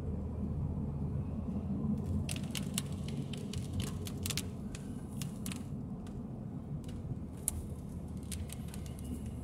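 Steady low road rumble of a moving car, with scattered sharp ticks, most of them between two and six seconds in.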